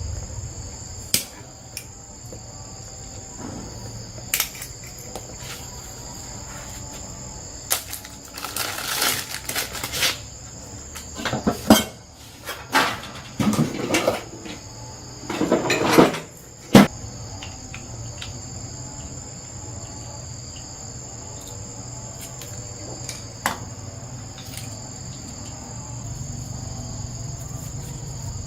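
Crickets chirping steadily in the background, with scattered sharp clicks and a run of loud clattering and scraping noises in the middle.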